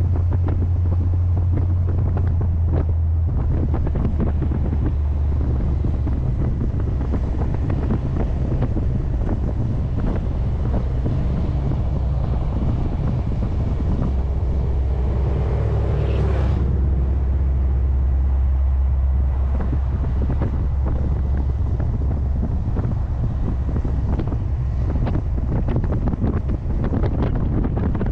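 Heavy wind buffeting the microphone on a moving C3 Corvette, over the low drone of its small-block Chevy 350 V8. About halfway through, a rising tone builds and cuts off sharply.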